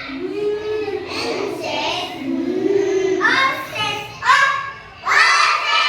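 A child's voice chanting phonic sounds in a sing-song way, with louder, higher-pitched short syllables in the second half.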